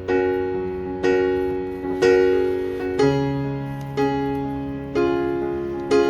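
Background music: soft piano playing slow chords, one struck about every second and left to fade.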